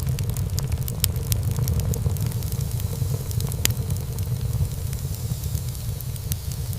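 Wood fire burning in a fireplace: a steady low rumble of flame with frequent small crackles and snaps, and one louder pop a little past halfway.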